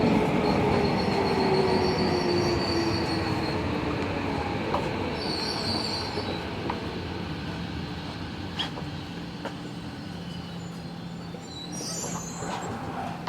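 Interior running sound of a Tokyo Metro Hibiya Line train (Tobu 70000 series): the motor whine falls in pitch and the overall sound fades as the train slows. High-pitched wheel squeal comes and goes three times, with a few clicks from the rails.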